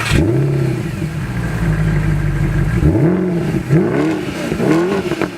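Mercedes-Benz SLS AMG's 6.2-litre V8 just after a cold start, its start-up flare settling to a fast idle. About three seconds in it is blipped four times in quick succession, the pitch rising and falling with each blip.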